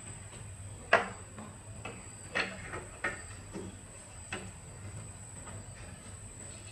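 A few sharp knocks and clinks from parts or tools being handled during repair work, the first, about a second in, the loudest, over a steady high-pitched whine.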